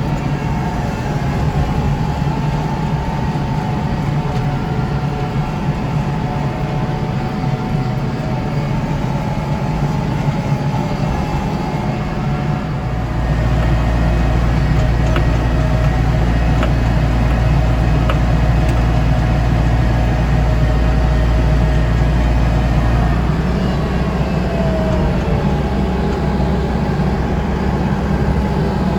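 Kubota tractor's diesel engine running steadily with its front-mounted snow blower working. Its low note grows louder and heavier for about ten seconds from a little before the middle, then eases back.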